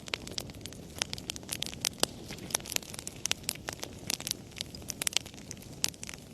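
A fire crackling, with many sharp, irregular pops and snaps over a low, steady rush of burning.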